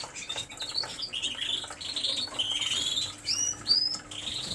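Caged canaries chirping and calling, with two short rising whistled notes about three and a half seconds in, over scattered light clicks.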